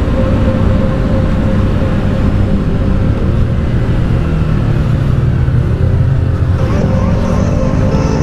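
Yamaha R3's parallel-twin engine running while the motorcycle is ridden, with wind rush on the microphone; about two-thirds of the way through the engine note rises as it accelerates.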